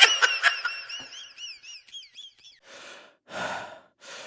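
Meme sound effect of heavy breathing: starting about two and a half seconds in, a few loud, noisy breaths in and out follow one another. Before it, a quick string of high warbling chirps fades out.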